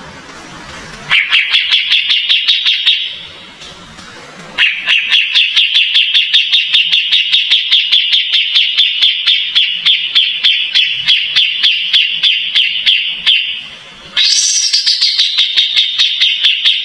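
Kapas tembak bulbul singing a fast, rapid-fire run of repeated notes, about five a second, in three long bouts with short pauses between them.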